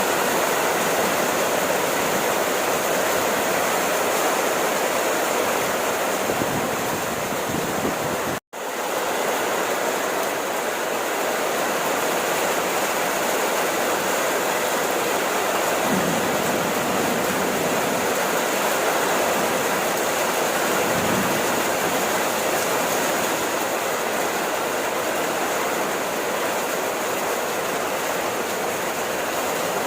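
Steady rain falling, an even hiss, with a momentary cut to silence about eight and a half seconds in.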